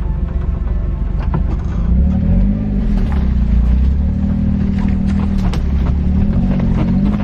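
Suzuki Jimny's engine running as it drives, its pitch rising and falling with the revs, over a low rumble, with a few scattered knocks.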